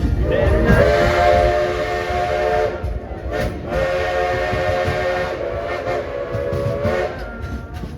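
Steam locomotive whistle sounding two long blasts, each a steady chord of several notes, over the rumble of the train running.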